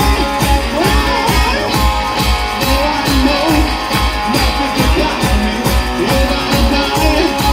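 Blues-rock band playing an instrumental stretch: guitar lines over a steady drum beat.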